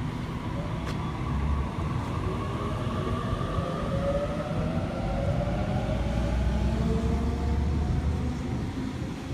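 Waratah electric train pulling out, its traction motors whining in several slowly gliding tones over a low rumble.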